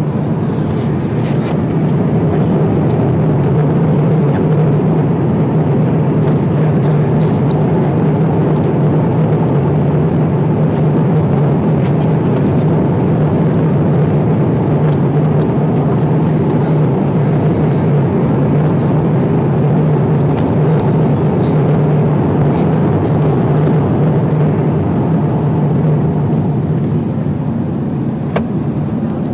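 Steady roar of an Airbus A350-900's cabin in cruise flight, the airflow over the fuselage and the engines heard from inside, with a low hum running through it. Faint clicks sound now and then.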